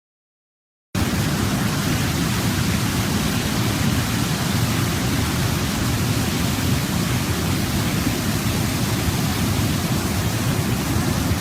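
Waterfall: a steady, loud rush of falling water that starts abruptly about a second in, after silence, and stays even throughout, strongest in the low range.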